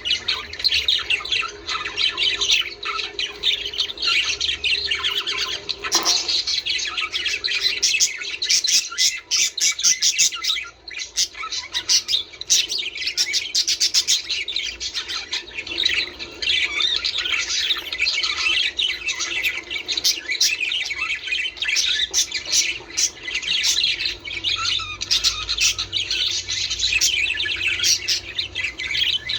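Budgerigars chattering without a break, a dense mix of squawks and quick chirps. There is a single sharp click about six seconds in.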